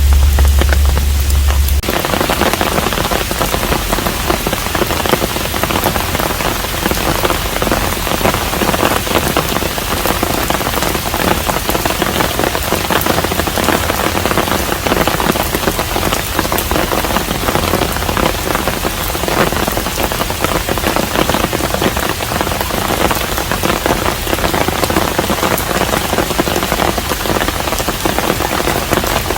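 Steady rain falling on a traditional Korean hanok, a dense patter of many drops. For the first couple of seconds a low steady hum sits under a thinner rain sound; it cuts off abruptly, and the full rain patter takes over.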